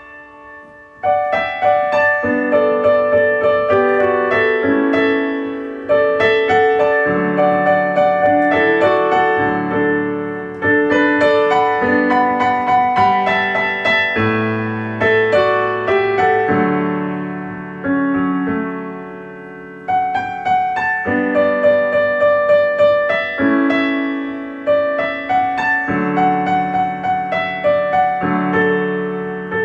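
Slow, calm piano music: a run of gently struck notes with sustained chords, fading at the ends of phrases and starting again about every four to five seconds.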